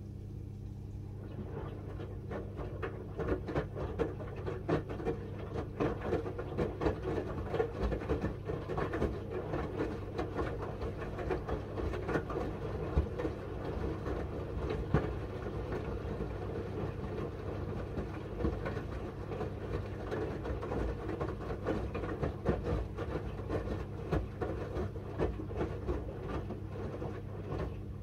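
Miele W1 washing machine drum turning during the wash, the wet linen bedding tumbling and water sloshing with irregular soft knocks. It starts about a second in and stops near the end, over a steady low hum from the machine.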